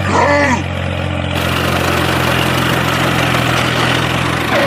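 Engine idling steadily with a low, even hum, which cuts off abruptly near the end. A short cry rises and falls at the start.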